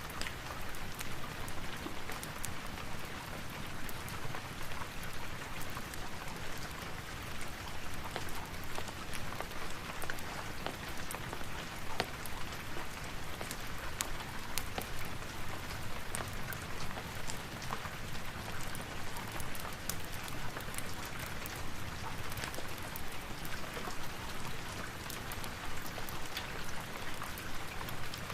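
Steady rain: an even, continuous patter with many scattered sharp ticks of drops.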